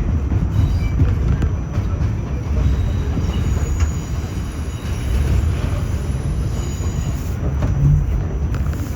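R46 subway train running on elevated track: a steady low rumble of wheels on rail, with a faint high wheel squeal and scattered clicks from the rail joints.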